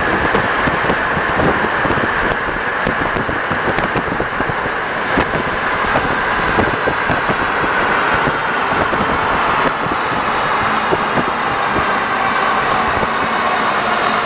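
Alstom NS-74 rubber-tyred metro train running on the line: steady, loud running noise with frequent small knocks. A high hum in it sinks slightly in pitch about halfway through and then holds.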